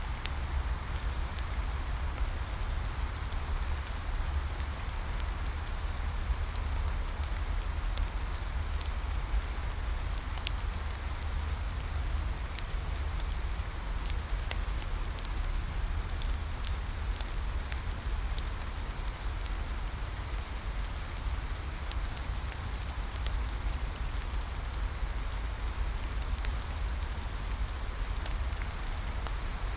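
Steady rain falling, mixed with a wood fire crackling: an even hiss and a low rumble, with scattered sharp pops.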